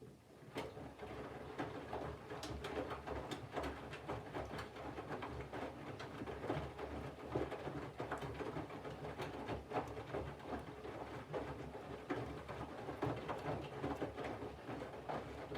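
Candy GVF4 137 LWHC/2 front-loading washing machine's drum starting to turn right at the start and tumbling wet laundry through the wash water in the main wash, with water sloshing and soft irregular thuds over a steady low motor hum.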